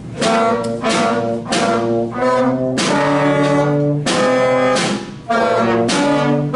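A beginner school band playing a simple tune, brass to the fore, in separate tongued notes with a few longer held ones.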